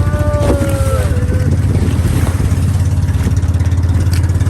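A motor vehicle's engine running steadily with a low, fast-pulsing drone. A brief held, slightly falling call or tone sounds over it in the first second or so.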